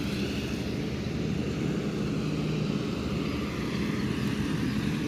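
A steady low engine drone, even throughout.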